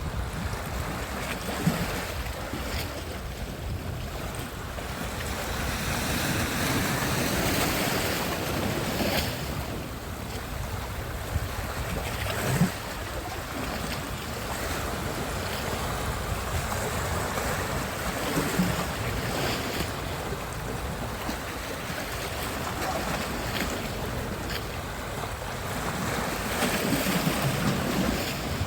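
Sea surf washing onto a beach, swelling louder in two surges, with wind buffeting the microphone and a couple of short knocks.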